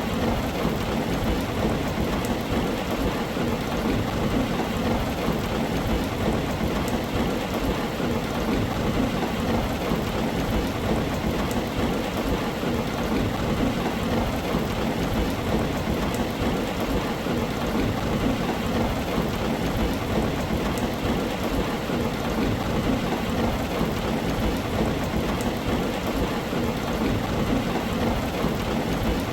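Steady heavy rain on a tin roof, an even dense patter with a constant low rumble underneath and no separate thunderclaps.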